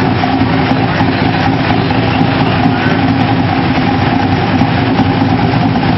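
Factory Five GTM supercar's engine running at a steady speed, with a constant pitch and no revving up or down.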